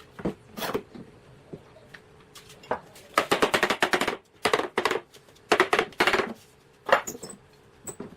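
Sharp taps and knocks coming in quick runs of several a second, with a dense run of rapid strikes about three seconds in and shorter runs after it.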